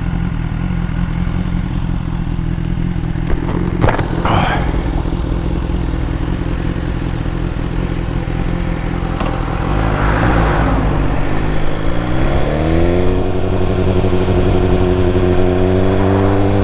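BMW S1000R's inline-four engine running on the move, then rising in pitch as it pulls through the revs from about eleven seconds in and holding a higher steady note. Two short knocks come about three and four seconds in.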